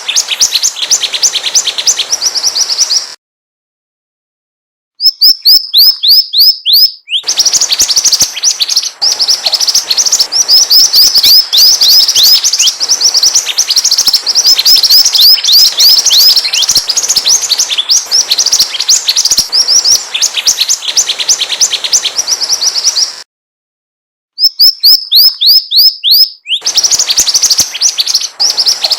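Mantenan songbird singing vigorously ('gacor') as a lure call: fast runs of many short, high, sharply falling notes a second. The song breaks off into complete silence twice, a little after 3 seconds in and again near the end.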